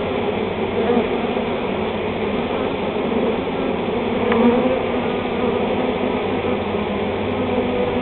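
A large swarm of honey bees buzzing in a steady, dense drone as they march into a hive box.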